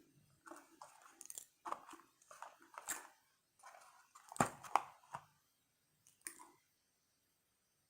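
A person chewing French fries, with irregular crunches and wet mouth sounds, the loudest crunches a little past the middle; the chewing stops about six and a half seconds in.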